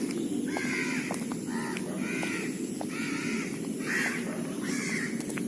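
Crows cawing repeatedly, about six harsh caws in a row, over a steady low background rumble.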